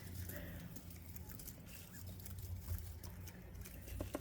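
Faint scattered ticks and rustles of bobwhite quail pecking and scratching, with a sharper click about four seconds in, over a low steady hum.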